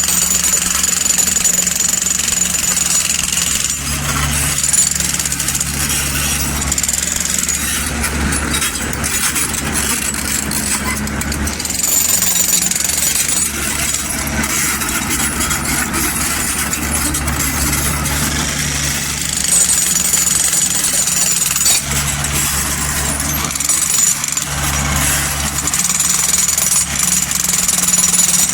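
Mini excavator's diesel engine running under working load, its note swelling and easing every few seconds as the hydraulics are worked. A high whine comes and goes, and there is some clatter around the middle.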